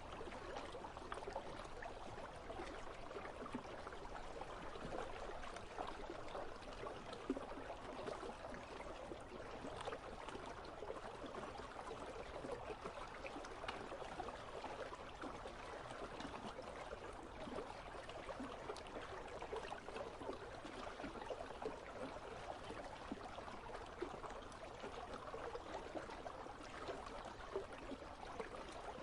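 Icy river running: a steady babble of flowing water.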